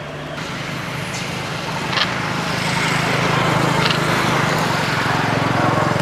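A motor running steadily, growing louder over the first few seconds, with a couple of short clicks.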